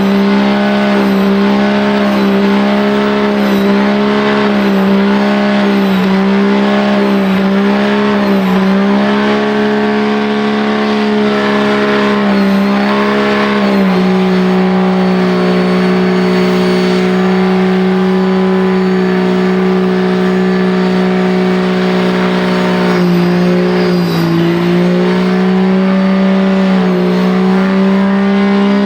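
Diesel truck engine held at steady high revs during a burnout, wavering slightly in pitch at first, then holding one steady note.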